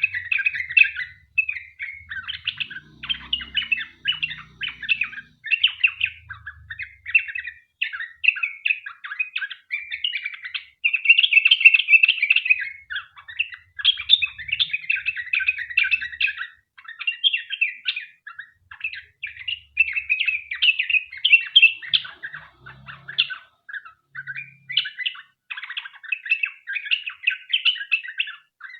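Sooty-headed bulbul (trucukan) singing a long, rapid song: runs of quick chattering, whistled notes strung together with only brief pauses.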